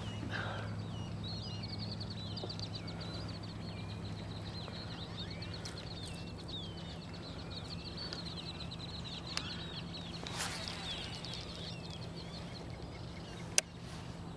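Birds chirping and chattering in a dense, rapid stream of short high notes over a steady low hum. A single sharp click comes near the end.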